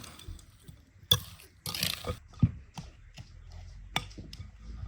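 A filling of egg whites and salt being mixed in a bowl: irregular clicks and a short wet scraping stretch.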